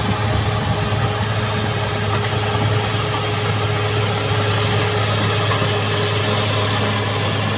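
Caterpillar D6R XL bulldozer working: its diesel engine runs steadily under a dense metallic clatter from the steel tracks and undercarriage, with a steady whine.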